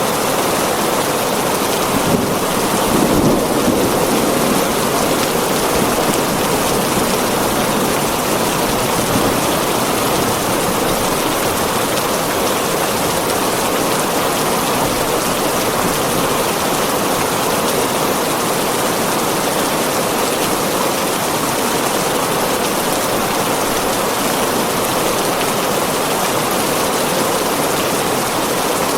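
Heavy rain falling steadily on a tin roof, an even, dense hiss, with a brief louder swell about three seconds in.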